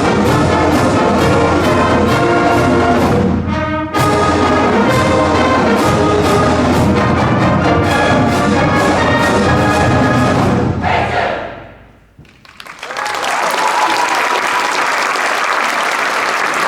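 Full high school marching band (brass, saxophones, flutes, clarinets and drumline) playing its fight song together, with a brief break about three and a half seconds in. The music ends about eleven seconds in and rings out in the gymnasium, then the audience applauds.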